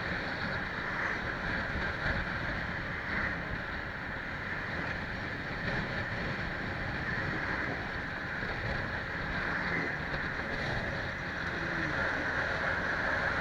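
Steady driving noise of a moving vehicle: an even rush of engine, tyre and wind noise with no sudden events.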